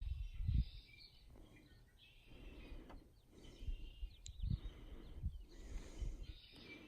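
Birds chirping in short calls over irregular low rumbles, the loudest rumble coming under a second in.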